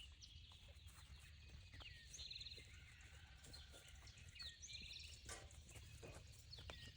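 Quiet outdoor ambience with faint birdsong: short high trills and chirps that come a few times, with a few soft knocks in between.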